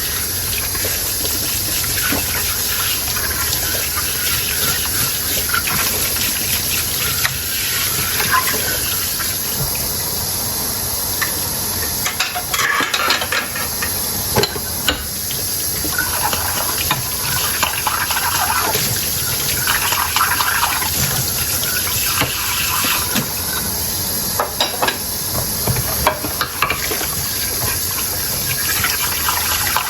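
Dishes being washed under a running tap at a sink: a steady rush of water with frequent light clinks and knocks of dishware being handled.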